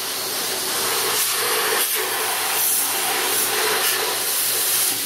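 Car wash pressure-washer wand spraying a steady high-pressure jet of water that hisses against a grease-caked leaf blower.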